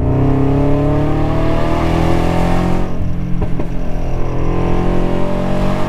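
Car engine and exhaust running steadily under load as the car drives a winding road. A hiss of tyre and road noise fades out about halfway through.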